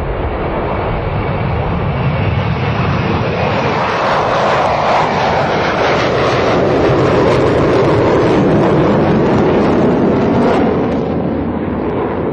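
Aircraft engine noise, a steady loud rush that grows louder through the middle and drops back a little about eleven seconds in.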